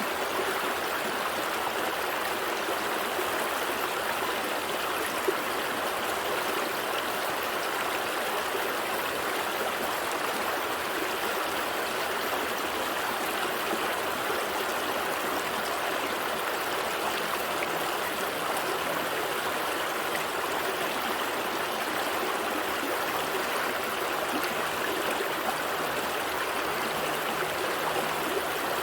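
A gentle stream flowing steadily, an even wash of running water.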